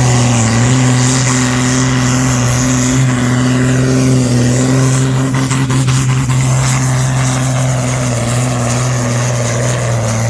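Modified pulling tractor's engine running flat out at a steady, held high pitch while dragging the weight-transfer sledge down the track.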